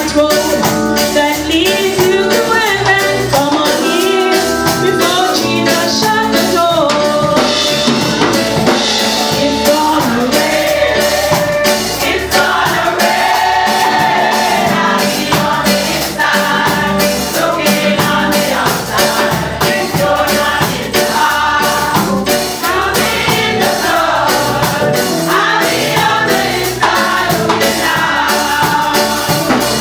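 A church choir singing an up-tempo gospel song with band accompaniment, drums keeping a steady beat under the voices.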